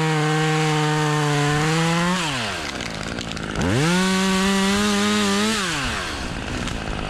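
Chainsaw cutting wood in two full-throttle bursts of about two seconds each. Between and after the bursts the engine drops back toward idle.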